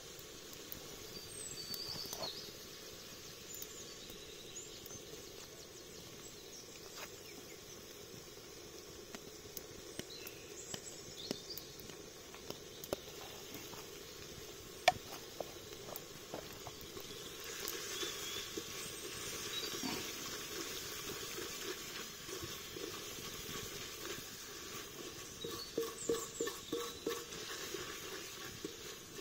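Onions and green chillies sizzling in a clay pot over a wood fire, with scattered crackles. The sizzle gets louder a little past halfway, and near the end a wooden stick scrapes and knocks against the pot as the mix is stirred.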